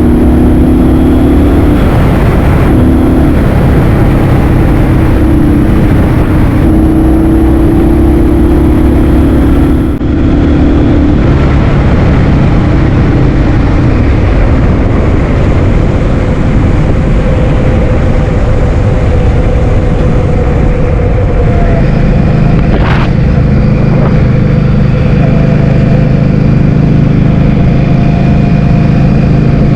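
Loud wind noise rushing over the microphone while riding a motor scooter, with the engine's steady note underneath that shifts pitch a couple of times.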